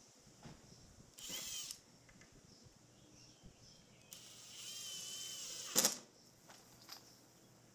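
Power drill running in two short bursts, likely driving screws while the screen's dividers are fastened. A brief whir comes about a second in, then a longer steady whir from about four seconds that ends in a sharp click near the six-second mark.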